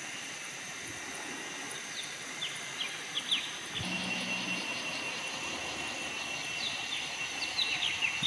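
Forest ambience: a steady high hiss under short, falling bird chirps that come in a burst about two to three seconds in and again near the end.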